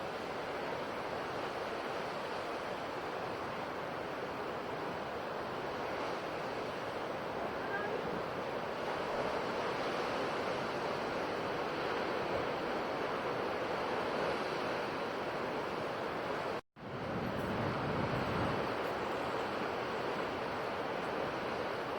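Ocean waves washing onto a shore in a steady, continuous surf. Late on, the sound cuts out for an instant and then comes back with a deeper swell.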